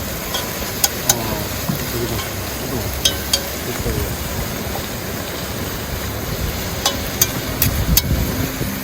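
Pork belly sizzling in hot oil over a campfire, a steady sizzle with a few sharp pops now and then.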